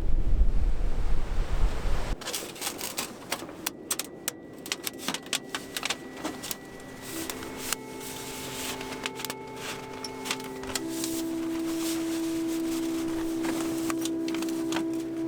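Strong wind buffeting the microphone with a low rumble, cut off suddenly about two seconds in. Irregular sharp crackling clicks follow, and soft held music notes fade in and build toward the end.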